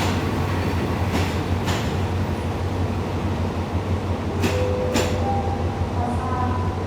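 Diesel train moving slowly: a steady low engine rumble, with two pairs of sharp clacks as wheels cross rail joints.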